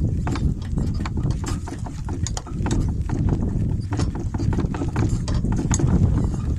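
Donkey walking in harness with a cart, hooves clip-clopping among irregular clicks and clatter, under a heavy low rumble of wind buffeting the microphone.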